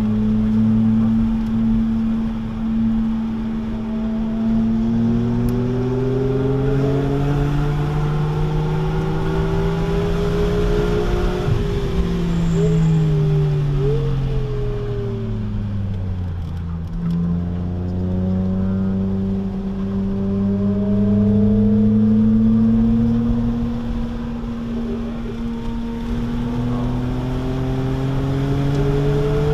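A 2006 BMW Z4 M Roadster's S54 straight-six with a muffler delete, heard from inside the cabin on track. Its note climbs steadily under acceleration, falls away for several seconds in the middle as the car slows, then climbs again twice toward the end.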